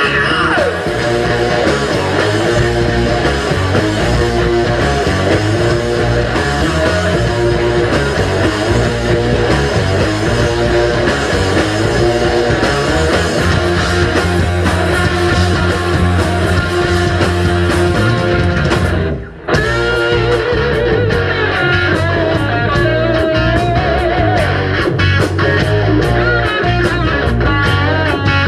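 Live rock band playing instrumentally: electric guitars, bass and drums. About nineteen seconds in the band stops for a moment, then comes back in with quick, evenly spaced drum hits.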